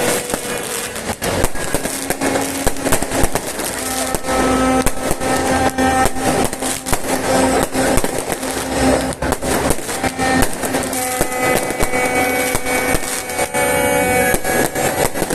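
Fireworks going off in quick succession: many sharp bangs and crackles, with sustained music playing alongside.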